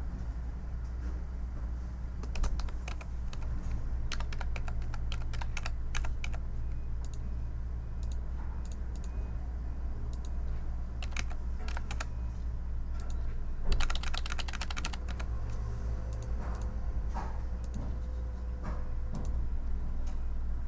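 Typing on a computer keyboard: key clicks in short, irregular bursts with pauses between them, over a steady low background hum.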